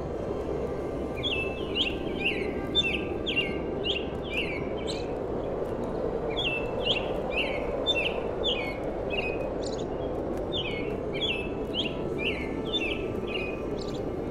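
Birds chirping in runs of short, falling calls, about three a second, with brief pauses between the runs, over a steady rushing background.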